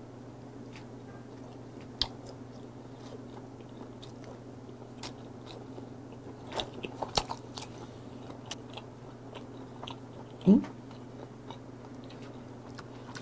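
Close-up mouth sounds of a person chewing a bite of pressed pork head meat with sea urchin roe: scattered soft wet clicks and smacks, bunched around the middle, over a steady low hum. A short vocal 'mm' about ten seconds in.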